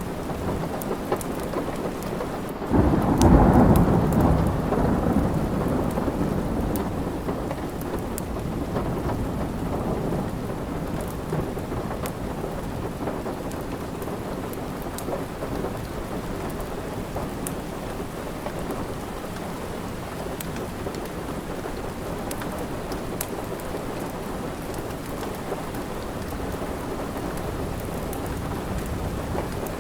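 Steady rain falling, with a roll of thunder about three seconds in that breaks loud and low and fades away over several seconds. Faint scattered crackles of a wood fire sound over the rain.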